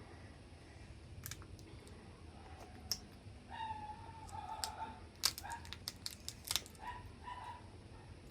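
Mud crab shell being cracked and crunched while eating, with sharp cracks that come thickest about five to seven seconds in. Short pitched sounds come in between them from about halfway through.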